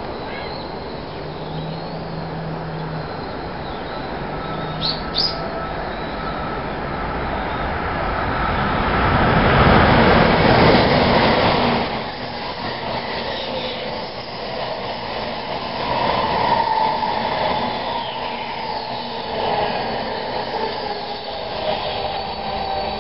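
A JR Central 300 Series Shinkansen passing at speed on elevated track. A rushing noise builds over several seconds and is loudest about ten seconds in. It drops sharply about twelve seconds in, then carries on as the cars run by, with a steady high-pitched whine.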